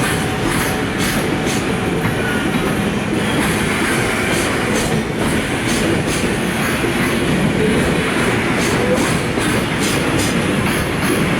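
Freight train's container wagons rolling past, their steel wheels clicking irregularly over rail joints over a continuous rumble, with brief faint wheel squeals.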